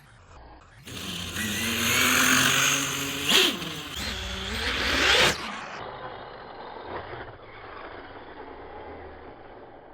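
Electric RC truck driving hard, its motor whine rising and falling in pitch over loud tyre and spray noise for about four seconds. It then drops to a quieter, duller rumble with a few light ticks.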